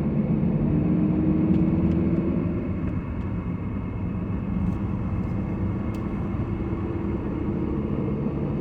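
A car driving on a wet road, heard from inside the cabin: steady engine hum and tyre noise, with a slight rise in engine pitch about a second in and a few faint ticks.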